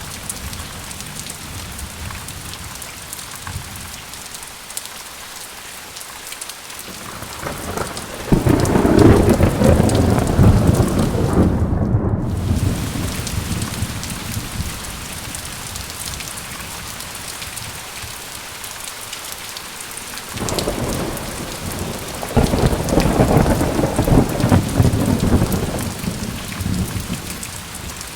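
Thunderstorm: steady rain hissing down, with two long rolls of thunder, the first building about a third of the way in and the second near two-thirds, each rumbling for several seconds before fading back under the rain.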